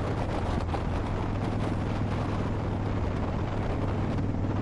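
Harley-Davidson Dyna Wide Glide's Twin Cam 103 V-twin engine with a Vance & Hines slip-on exhaust, running steadily while cruising, with wind rushing over the microphone.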